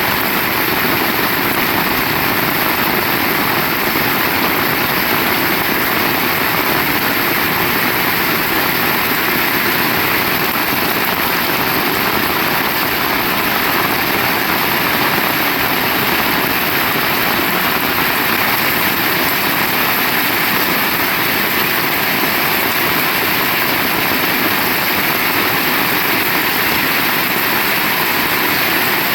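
Heavy rain falling, a loud, steady, even hiss with no breaks.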